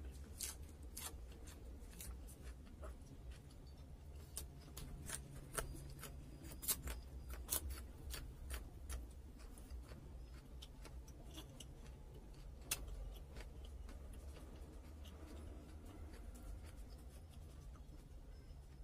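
Close-up eating sounds: crisp, irregular crunches and clicks of a mouthful of lettuce being bitten and chewed, coming thick at first and thinning out after about half way. A steady low hum runs underneath.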